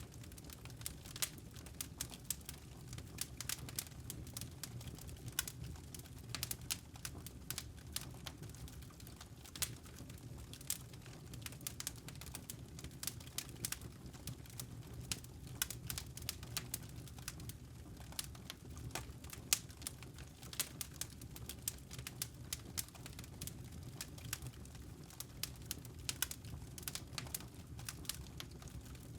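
Wood fire burning, with irregular sharp crackles and pops of burning logs over a low steady rumble of flame.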